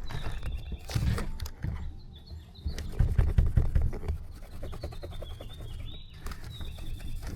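Tail light lens being polished by hand with fine buffing compound: quick, uneven rubbing strokes with some handling knocks, loudest around the middle.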